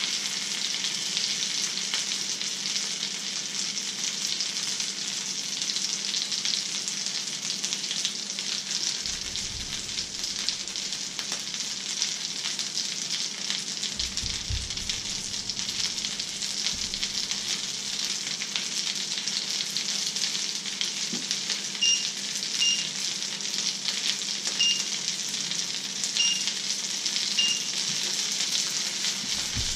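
Fish fingers and egg frying in a pan with a steady sizzle. Five short high beeps sound in the second half.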